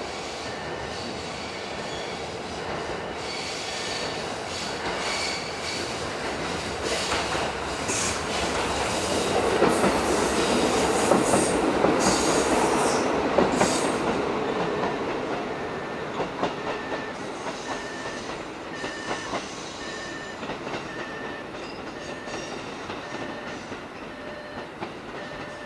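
Train wheels on steel rails, squealing and clacking over joints and points. The sound builds to its loudest about halfway and then fades. Near the end a two-car diesel railcar rolls in over the turnouts.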